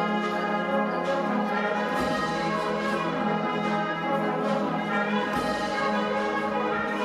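Agrupación musical playing a Semana Santa processional march: sustained brass chords from trumpets and trombones, with occasional low drum strokes.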